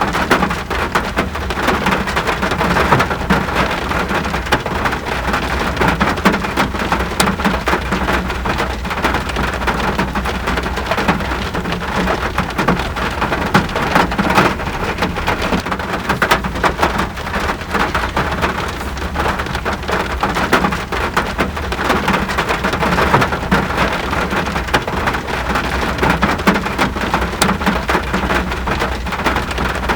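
Steady rain falling, a dense hiss peppered with countless individual drop ticks, over a low steady rumble.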